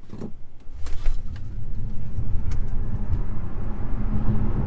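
Tesla electric car accelerating hard from a standstill: a low road and tyre rumble swells about a second in and holds, with a steady low motor whine joining near the end.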